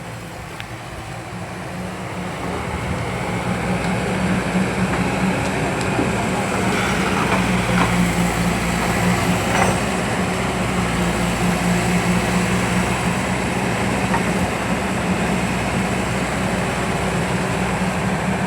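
Hydraulic excavator's diesel engine running under load with a steady hum, growing louder over the first few seconds and then holding steady, with a few faint knocks midway.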